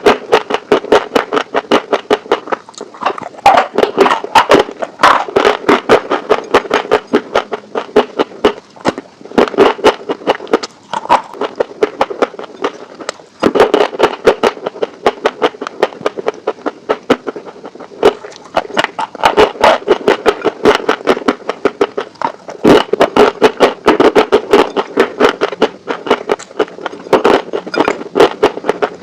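Crispy fried chicken wings being bitten and chewed close to the microphone: dense, irregular crunching and crackling in clusters, with brief pauses between mouthfuls.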